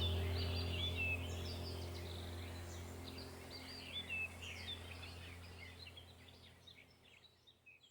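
Small birds chirping and twittering over a low steady drone, all fading out gradually.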